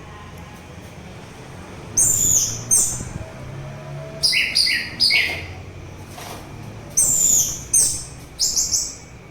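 Orange-headed thrush singing: a string of short, loud, high-pitched phrases with short pauses between them, coming closer together near the end.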